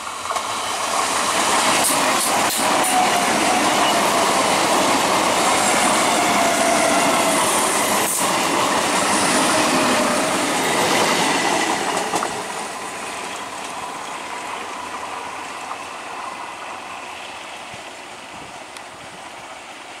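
ICF-built Medha electric multiple unit local train passing at speed: loud rumble and wheel clatter, with sharp clicks over the rail joints and a whine falling in pitch as it goes by. About twelve seconds in the sound drops to a quieter, steady rumble.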